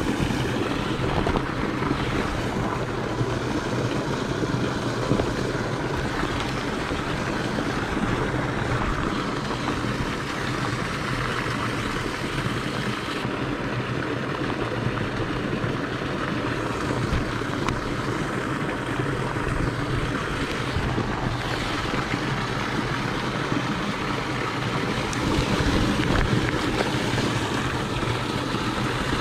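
Steady rain falling on a pond and on a rain jacket, with wind buffeting the microphone.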